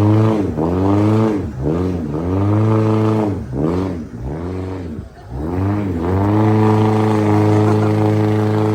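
Car engine revved up and down in quick repeated bursts, then held at steady high revs for the last few seconds.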